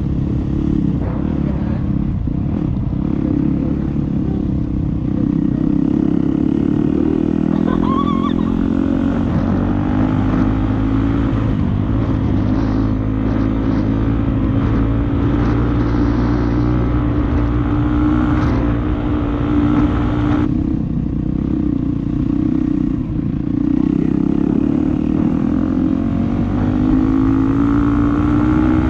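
Dirt bike engine running under way, its revs rising and falling as it rides.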